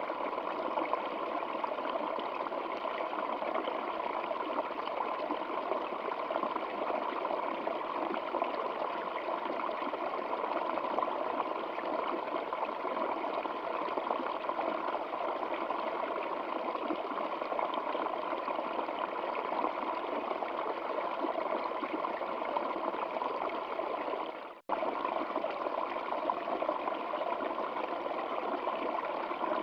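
Stream water flowing steadily, a dense, even rush and trickle. It cuts out for a split second about three-quarters of the way through, then carries on unchanged.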